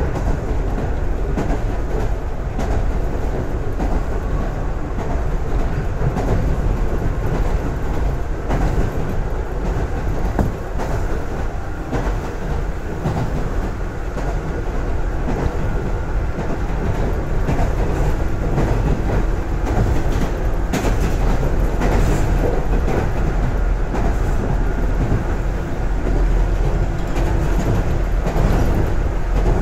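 113 series electric train running, heard from inside the passenger car: a steady wheel-on-rail rumble with frequent clicks from the rail joints, growing a little louder after about 18 s.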